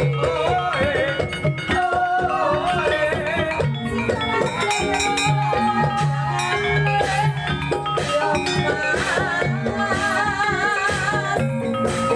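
Javanese gamelan music accompanying an ebeg dance, with ringing struck notes and drum strokes under a wavering sung melody.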